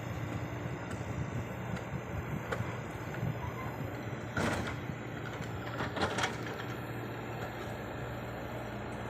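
Heavy diesel engine of earthmoving equipment running steadily, with two short bursts of clatter about four and a half and six seconds in.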